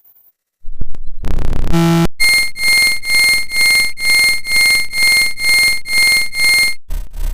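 Sound effects in quick succession. A short burst of noise is followed by a bell-like ringing, like an alarm, that pulses about twice a second for several seconds and then cuts off. A faster, rougher pulsing sound takes its place near the end.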